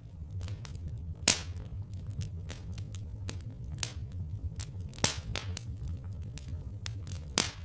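Wood fire crackling, with irregular snaps and three louder pops, about a second in, midway and near the end, over a steady low rumble.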